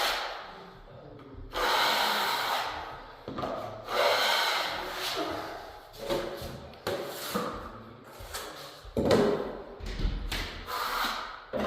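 Plastering trowel spreading lumpy joint compound over a plasterboard joint: a run of scraping strokes, roughly one a second.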